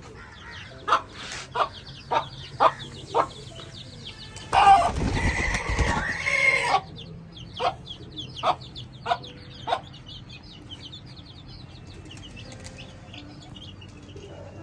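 Chickens clucking in short, sharp calls, with chicks peeping high and faint. About four and a half seconds in comes a loud, noisy flurry lasting about two seconds, with a harsh cry through it.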